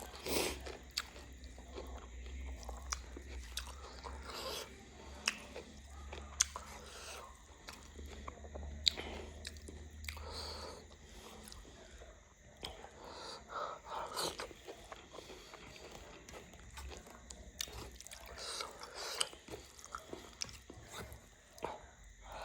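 Close-up mouth sounds of a person chewing and eating, with irregular sharp clicks and smacks. A low hum sits underneath for roughly the first half.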